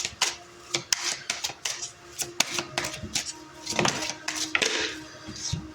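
Oracle cards being shuffled and handled: a quick run of sharp clicks and flicks of card stock, with a couple of longer swishes of cards sliding past each other a little after the middle.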